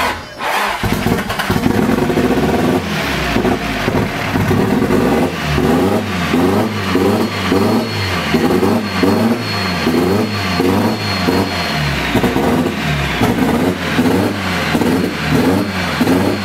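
Nissan SR20DET turbocharged four-cylinder running roughly on its first start after sitting for a year and a half, the revs surging up and down about twice a second. It runs badly because the start map and ignition timing are not yet set right. A thin high whine joins in part way through.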